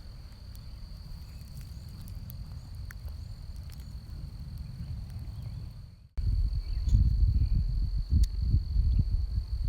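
Insects trilling outdoors as one steady high tone, over a low rumble on the microphone. The rumble gets much louder after a sudden break about six seconds in.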